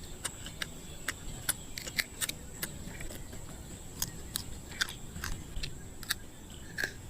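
Cooked lobster or shrimp shell being bitten and chewed: sharp, irregular cracks and crunches, roughly two a second, with a short lull about three seconds in.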